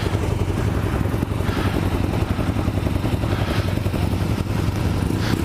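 Motorcycle engine running steadily while riding, with a strong low engine note and an even rush of wind and road noise.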